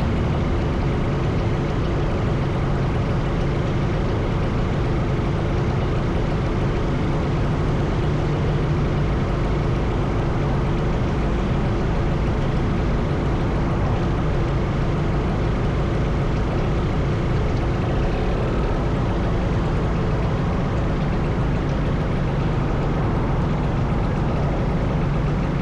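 Motorcycle engine running steadily while under way, with a constant rush of noise over it.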